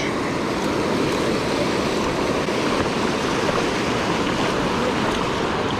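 River current rushing steadily: an even, unbroken wash of moving water.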